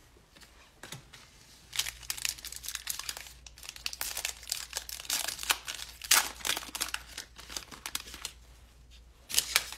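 Wrapper of a 2021 Panini Absolute football card pack being torn open and crumpled: irregular crinkly crackling, with a louder burst near the end.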